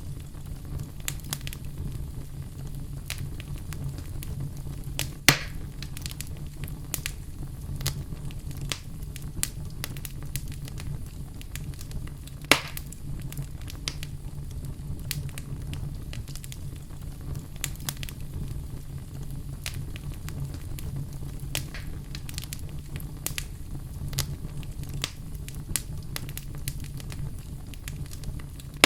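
Fire burning in a fireplace: a steady low rumble of flames with frequent small crackles and two louder pops, about five and twelve seconds in.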